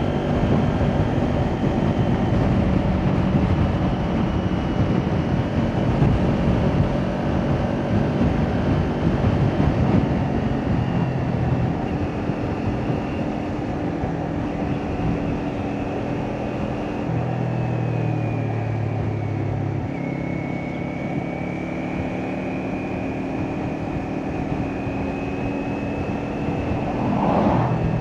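Kawasaki Ninja 400 parallel-twin engine through an Akrapovic exhaust, running in traffic with its note rising and falling as the throttle changes. Near the end there is a brief rev.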